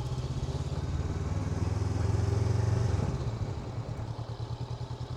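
Honda NX500's parallel-twin engine running as the motorcycle is ridden, a steady low hum that swells for a couple of seconds and then eases back as the throttle is rolled off.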